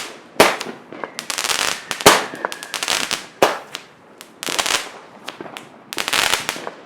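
Consumer fireworks going off in a volley: about five loud bangs spaced a second or so apart, each followed by a crackling burst, with smaller pops between.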